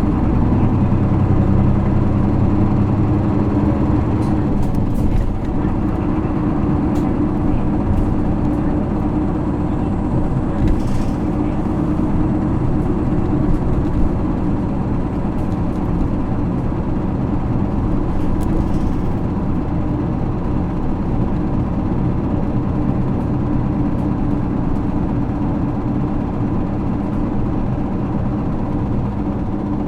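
Running sound of a 2009 Isuzu PKG-LV234L2 city bus with its 6HK1 diesel engine, pulling steadily on the road. The low engine note is heavier for the first few seconds, then eases to an even drone.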